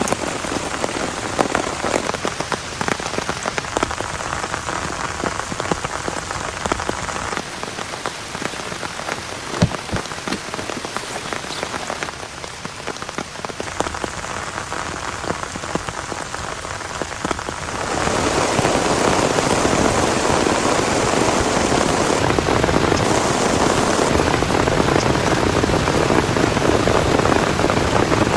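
Rain falling on a surface as a dense crackle of many small drop hits. About two-thirds of the way through it turns suddenly louder and denser, a heavy downpour.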